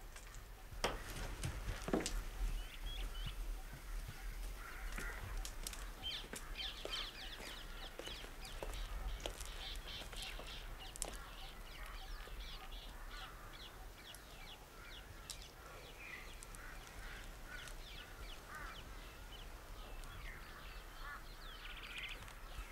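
Birds chirping and calling: many short, high calls overlapping one another. Two sharp clicks come about one and two seconds in.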